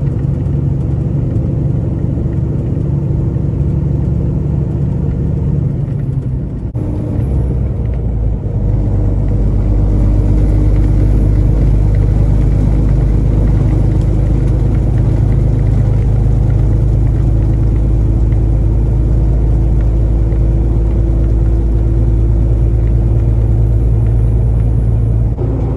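Semi-truck engine and road noise while driving, a steady low rumble. It dips briefly about seven seconds in, then runs louder and steady.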